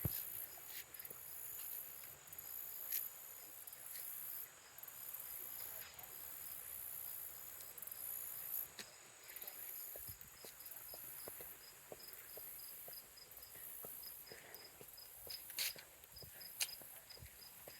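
Crickets and other insects chirping steadily: a continuous high trill with a faint, evenly repeating chirp beneath it. A few sharp clicks stand out, the loudest about a second before the end.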